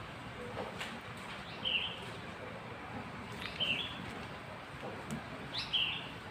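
A bird repeating a short, high chirp about every two seconds, over a steady background hiss.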